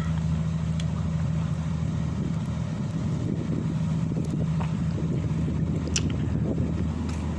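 An engine running steadily at idle: a constant low droning hum.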